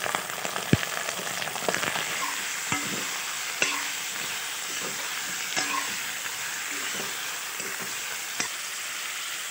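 Raw pork belly pieces sizzling in hot oil in a wok, stirred with a metal spoon that scrapes and knocks against the pan now and then.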